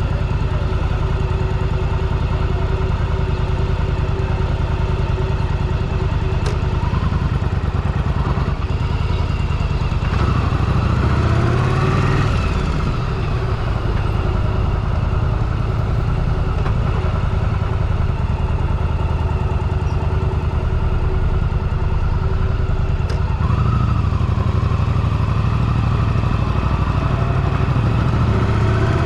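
Motorcycle engine running steadily under way, picked up by a helmet camera. The revs rise and fall about a third of the way in and again near the end, as the bike accelerates and shifts.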